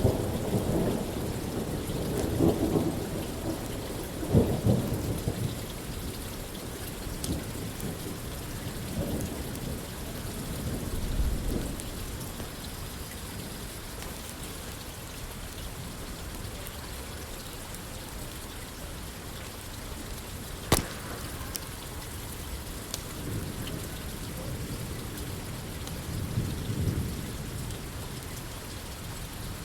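Steady rain falling on a roof, with low thunder rumbling in several rolls over the first dozen seconds and again near the end. About twenty seconds in there is a single sharp crack.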